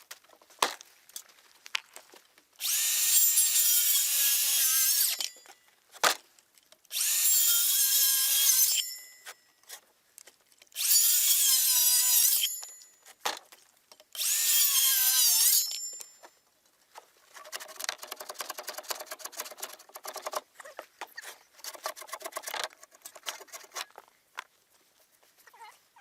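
Power tool working wood in four loud bursts of about two seconds each, its motor pitch wavering under load. Then comes a softer, rapid rattle of small clicks lasting several seconds.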